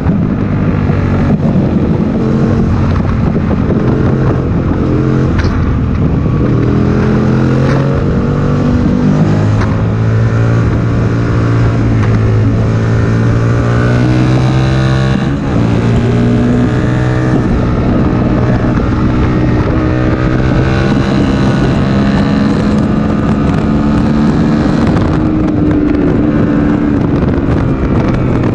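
Aprilia Tuono 1000R's V-twin engine running hard on track. Its pitch climbs steadily for several seconds, drops abruptly about halfway through, then holds and rises again.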